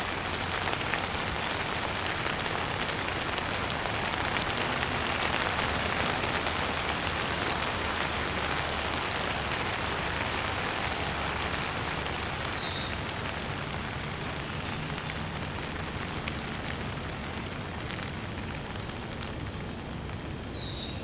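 Steady rain falling on surfaces, easing slightly toward the end. A bird gives a short chirp about midway and again near the end.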